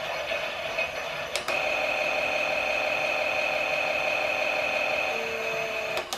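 Toy Klein Miele washing machine running its drum mechanism, a steady whine of several fixed tones. It clicks about a second and a half in, the hum shifts pitch and grows a little louder, and it clicks again near the end.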